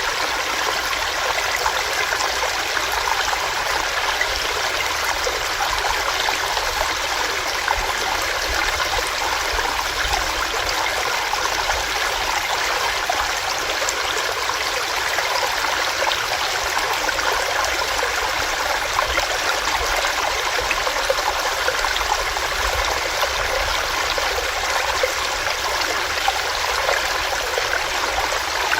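Small stream running over rocks, a steady rushing and babbling of water.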